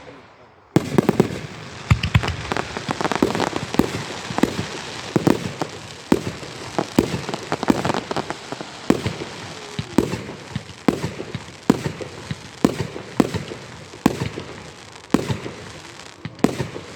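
Fireworks going off in a rapid barrage: a dense crackle with sharp bangs about twice a second, starting suddenly about a second in.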